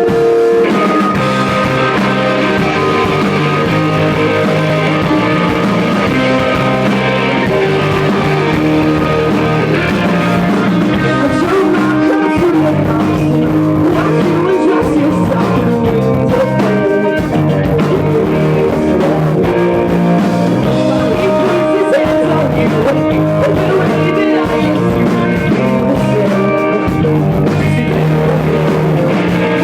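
Rock band playing live during a sound check, with electric guitar prominent over bass and drums.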